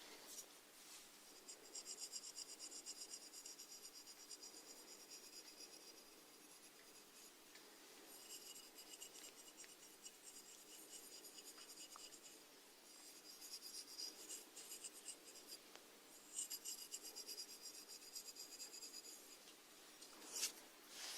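Snails feeding, their radulae rasping at food: soft runs of fine, rapid scraping ticks lasting a few seconds each, with short pauses between.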